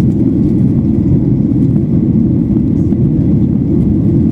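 Steady low cabin rumble of a Boeing 737-800 in flight: engine and airflow noise heard from inside the passenger cabin.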